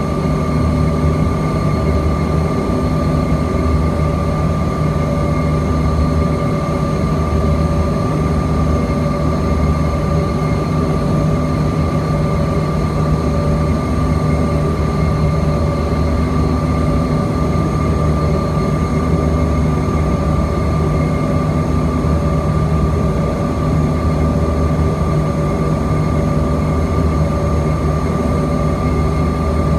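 Steady cabin noise of a Bombardier CRJ-200 airliner, its rear-mounted GE CF34 turbofans running at a constant setting with a steady high whine over a deep hum.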